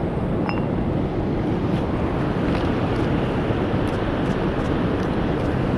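Steady low rushing noise, with faint, scattered crackles of a wood fire burning in a fire stand.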